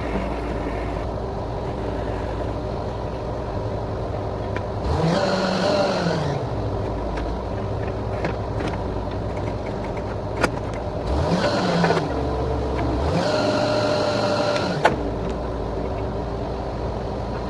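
Borewell drilling rig's engine running steadily, rising in pitch three times as it revs up and settles back. There are two sharp knocks, one a little past the middle and one near the end.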